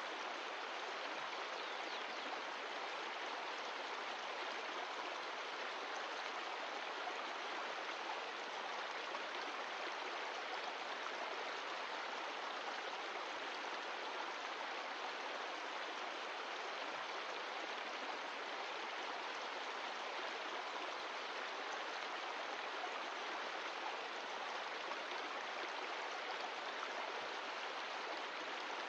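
Glacial-meltwater mountain stream flowing, a steady, even rush of water with no change in level.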